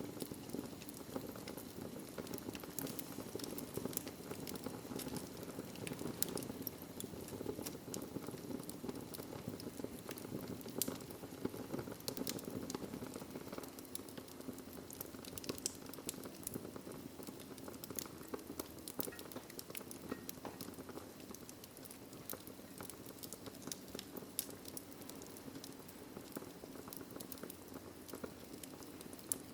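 Wood fire crackling in a fireplace: a steady rush of flame under frequent sharp pops and snaps.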